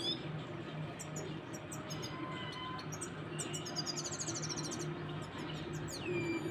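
Young Himalayan goldfinch trying out its song: scattered short high chirps, a rapid twittering trill about four seconds in, and a falling whistled note near the end.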